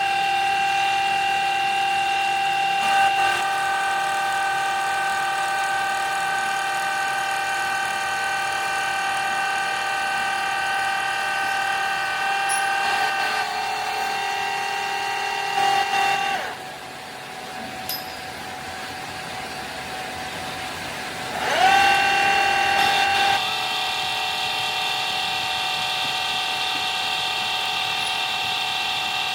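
Factory machine tool running with a steady high whine. It winds down about halfway through, then spins back up with a brief rising pitch a few seconds later.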